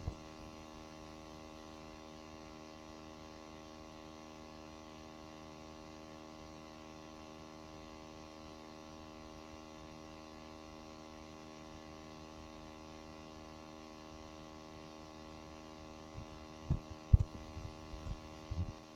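Steady electrical hum, a mains-type buzz with many even overtones, with a few sharp knocks near the end.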